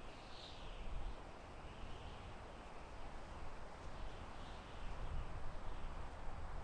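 Soft wind blowing through forest trees: a steady rustling hiss that rises and falls in gentle gusts, over a low rumble.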